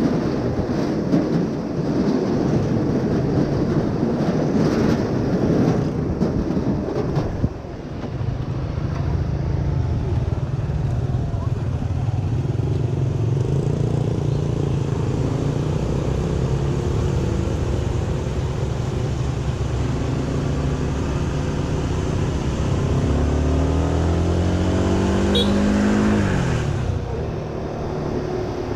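Honda Winner 150 motorbike's single-cylinder engine running under way, with wind rushing over the microphone. About eight seconds in the rushing eases and the engine's steady hum comes through. Near the end the engine climbs in pitch as it accelerates, then drops sharply.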